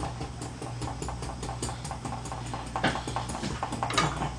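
Close-up eating noises while working through ramen: a quick run of wet chewing and smacking clicks, several a second, with two sharper clicks near the end, over a steady low electrical hum.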